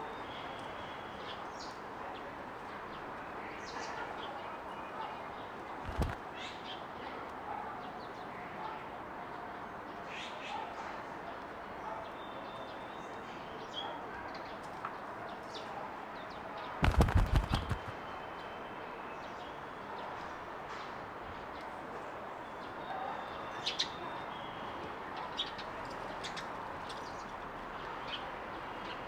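Small garden birds chirping and calling at scattered intervals over a steady background hiss. About seventeen seconds in comes a loud, rapid burst of wingbeats lasting about a second as a bird flaps close by, the loudest sound; a single thump comes about six seconds in.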